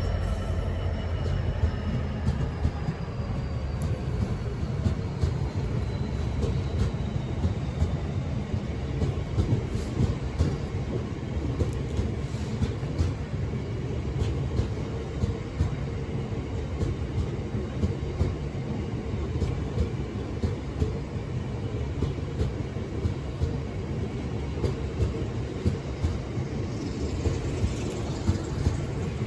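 A train running on the rails: a steady low rumble with scattered clicks from the wheels, and a thin whine that falls slowly in pitch over the first several seconds.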